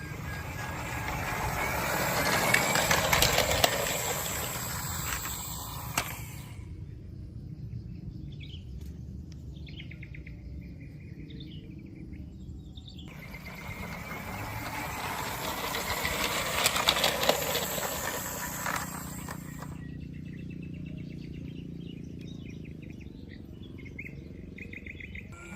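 Birds chirping, with two long swells of rushing noise that rise and fade, loudest about three seconds in and again about seventeen seconds in.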